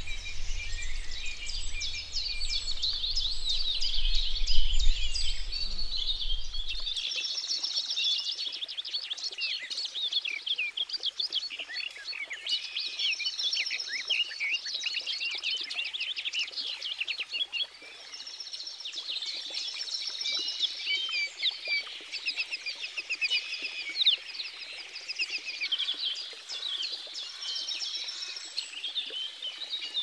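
A chorus of many small birds chirping and twittering without a break. A low rumble runs underneath and stops suddenly about seven seconds in.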